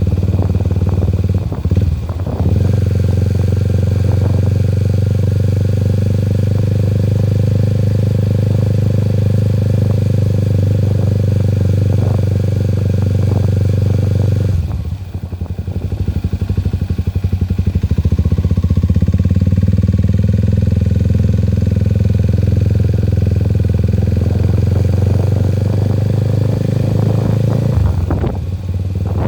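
A vehicle engine running steadily with a low drone while travelling. It eases off briefly about 2 seconds in, for longer around the middle, and again near the end.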